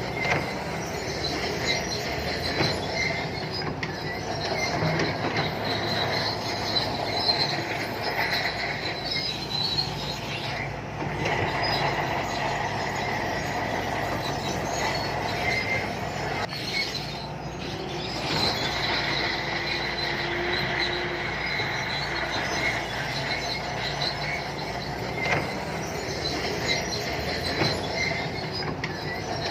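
Shantui crawler bulldozer working, its diesel engine running steadily under the high squeal and clatter of its steel tracks.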